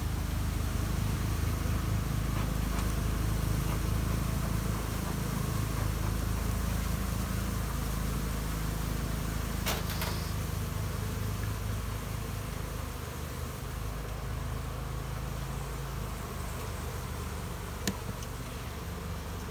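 Honey bees buzzing steadily around an open hive, with a couple of sharp clicks about halfway through and near the end.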